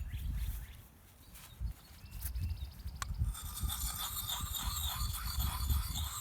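Sharpening stone rubbed in circular strokes on a steel axe blade, a rhythmic rasping scrape. It stops about a second in, there is a click near three seconds, and then the strokes resume steadily with the stone turned to its smooth side.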